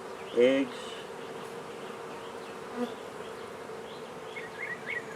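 A colony of honey bees humming steadily around an open hive during a frame inspection.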